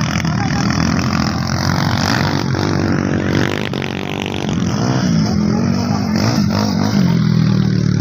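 Motocross dirt bike engines revving hard, their pitch rising and falling as the throttle opens and closes.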